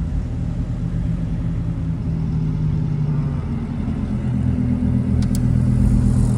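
Supercar engines running at low speed as the cars pull in, a steady low rumble that rises a little in pitch about four seconds in. A brief click comes near the end.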